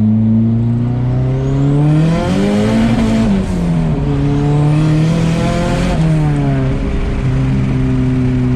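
A car engine running and being revved, the pitch climbing and falling back twice.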